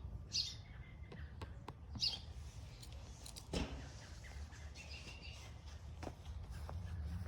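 Songbirds chirping in short high calls every second or two, over a steady low rumble, with a few faint clicks.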